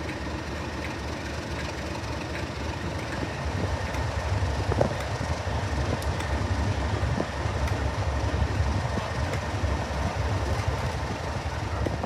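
Diesel locomotive-hauled train running by, its engine a deep rumble with wheels clicking over the rail joints, getting louder about four seconds in.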